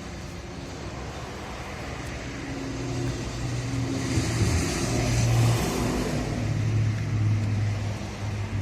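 A car running, its low engine hum growing louder to a peak about five seconds in, with rising hiss, then easing off.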